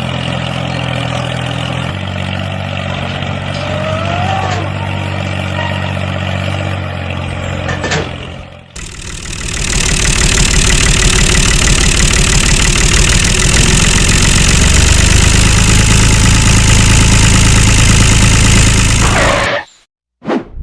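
An engine running steadily. After a brief dip about nine seconds in, a louder, noisier engine run follows, then stops abruptly near the end.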